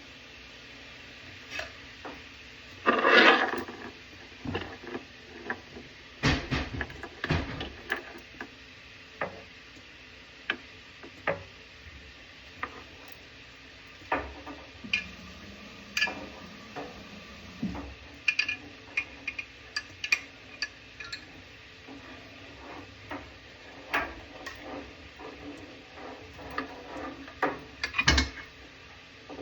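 Irregular clinks, taps and knocks of tools and metal fittings handled during a faucet installation, with a louder scraping rattle about three seconds in.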